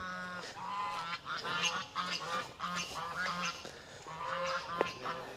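Goose honking, a string of short repeated calls.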